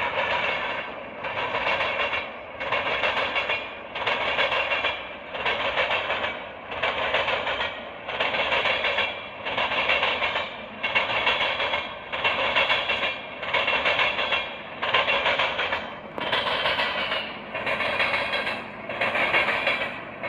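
A train rolling past, its wheel-on-rail noise swelling and fading about once a second in an even rhythm as each car goes by.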